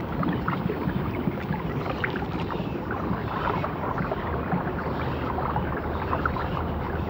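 Steady underwater ambience: a low rumbling hiss with many small scattered clicks and crackles.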